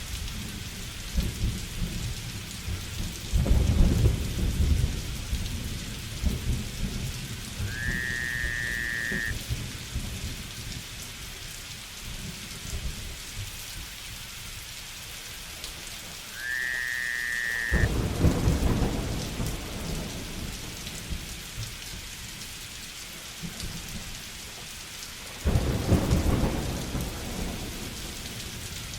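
Steady rain pattering, with thunder rumbling three times, each roll starting suddenly and fading. A short whistle-like call, rising then held, sounds twice in between.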